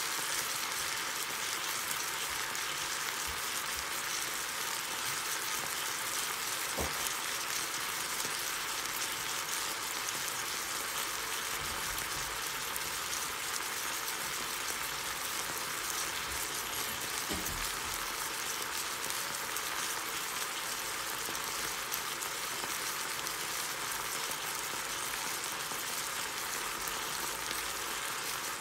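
Chop steak (cubed beef with onion, bell peppers and broccoli) sizzling steadily in a frying pan, a continuous crackling hiss of hot fat and juices. Two faint taps are heard, at about 7 and 17 seconds in.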